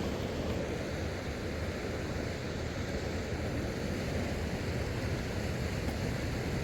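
Wind blowing across the microphone: a steady, low rushing noise.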